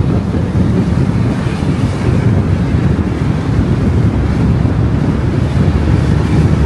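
Steady, loud road and wind noise from a car driving, a low rumble with a hiss on top.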